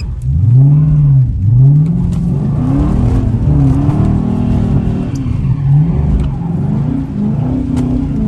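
Car engine being revved hard and let off again and again, its pitch rising and falling in quick swells about a second apart, as the driver tries to spin the car into donuts on a wet surface.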